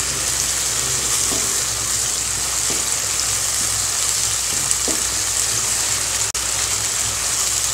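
Onion, tomato and ginger-garlic paste sizzling in hot oil in a pan, a steady frying hiss, stirred with a wooden spatula that scrapes faintly now and then.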